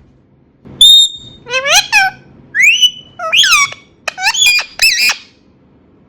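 Indian ringneck parrot giving a series of about six loud, sharp squawking calls that bend up and down in pitch, ending about five seconds in.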